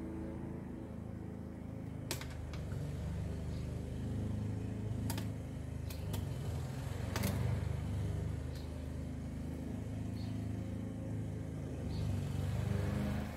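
A vehicle engine running steadily, a low hum, with a few sharp clicks and knocks from the plastic drain pan as it is tipped to pour transmission fluid.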